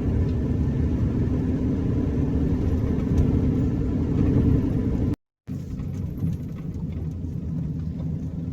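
Campervan driving on the road: a steady low rumble of engine and road noise. It cuts out for a moment about five seconds in, then carries on a little quieter.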